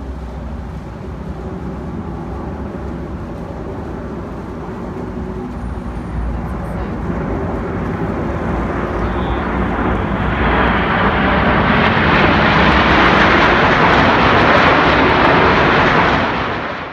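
Aircraft engine noise growing steadily louder, loudest over the last several seconds, then cut off abruptly at the end.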